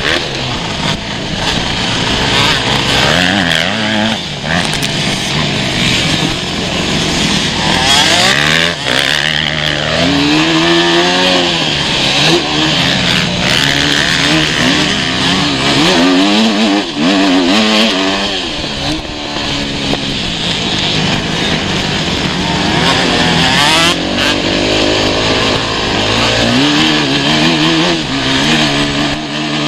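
Motocross motorcycle engines revving up and down, several at once, their pitch climbing and dropping again and again with throttle and gear changes as the bikes ride the track.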